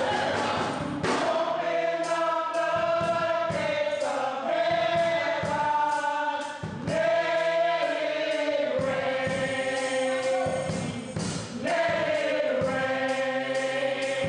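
Gospel choir singing in long held phrases with instrumental accompaniment and a steady beat.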